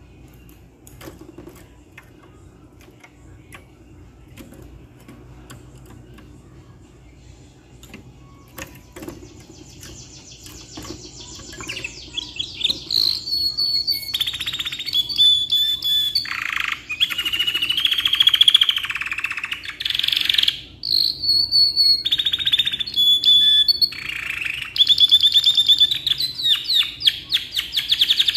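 Domestic canary singing a long song of rapid rolling trills and chirps, starting faintly about ten seconds in and growing loud. Before the song only faint scattered clicks are heard.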